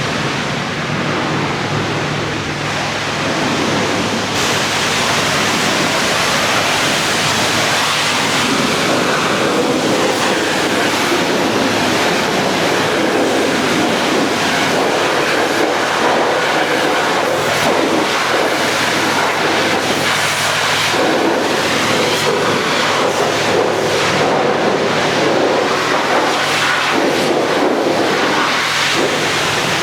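High-pressure water spray hissing steadily against a truck at a truck wash, with a low steady hum underneath.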